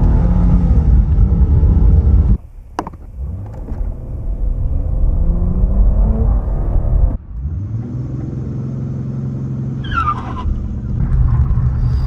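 Dodge Challenger engine revving with a heavy rumble, which drops off abruptly about two seconds in. The revs then climb, and after another sudden break the engine runs more steadily.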